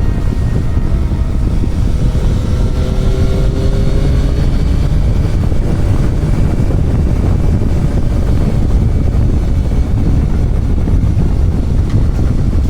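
Motorcycle engine running while riding, with heavy wind rushing over the camera microphone.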